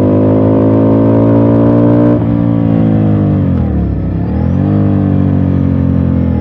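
Ducati Scrambler's air-cooled L-twin engine running under load while riding, with a gear change about two seconds in. Around four seconds in the revs sink and then climb again.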